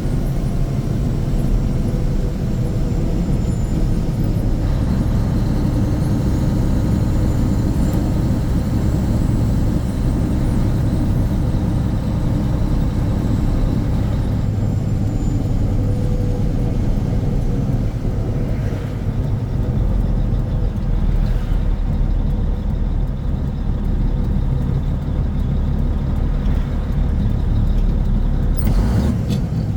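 Turbocharged diesel engine of a 285 hp Mack RS700L truck running under way, its pitch drifting slowly up and down as it pulls. A short hiss-like burst comes near the end.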